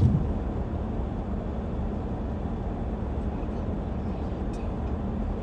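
A vehicle's engine running steadily, a low, even hum with no change in speed.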